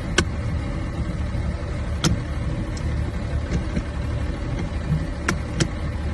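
A steady mechanical rumble, vehicle-like and loud, with a few sharp clicks scattered through it.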